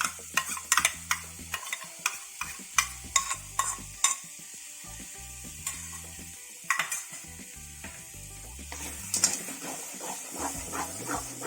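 A spoon scraping and knocking against a pan as masala, with onion and coconut paste added, is stirred in hot oil, sizzling. Quick clatter of strikes at first, then a stretch of steady sizzling in the middle, and more knocks near the end.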